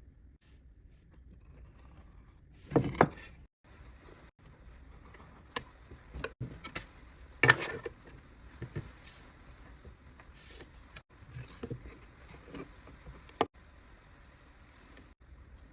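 Irregular short knocks and clicks, as of objects being handled, with the sharpest ones about three seconds, seven and a half seconds and thirteen and a half seconds in.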